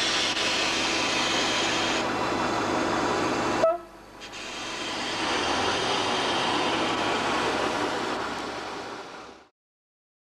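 Narrow-gauge train on the move: a steady rolling noise that breaks off abruptly with a short sharp click about three and a half seconds in. The noise then builds again and fades out near the end.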